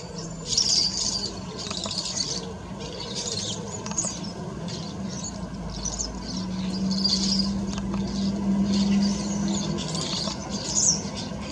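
Small garden birds chirping and twittering in repeated short bursts. A low steady hum sounds underneath for a few seconds in the middle.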